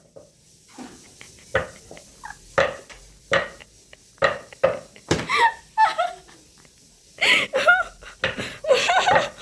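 People's voices and laughter, with a scatter of short, sharp taps in between.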